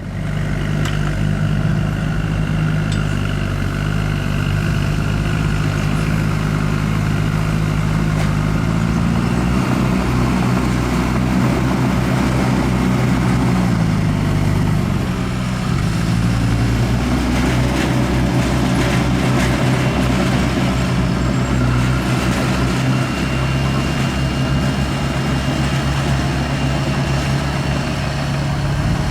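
Heavy diesel engine of earthmoving equipment running steadily, its pitch rising about nine seconds in and dropping back around fifteen seconds.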